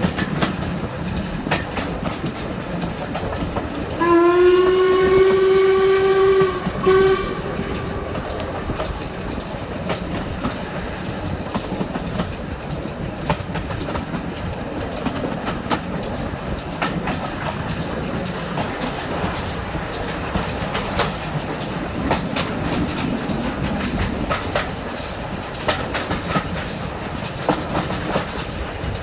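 Steam-hauled passenger train running, its carriage wheels clicking over the rail joints as heard at an open carriage window. About four seconds in, the steam locomotive's whistle sounds one long blast, then a short one.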